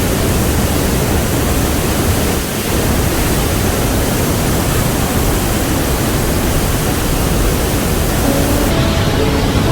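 Glacier-fed waterfall rushing, a loud, steady, dense noise. About eight seconds in, background music with light melodic notes comes in over it.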